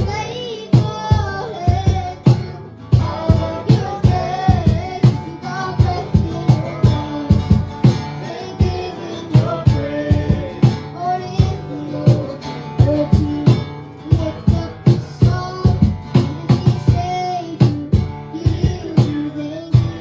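Live worship band playing an upbeat song: singers over guitar, with a steady, driving drum beat.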